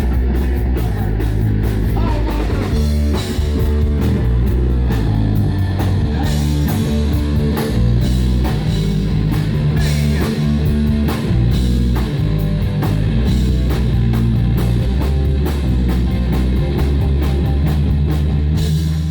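Rock music played by a band: drum kit keeping a steady beat under electric guitar, with no clear vocal line.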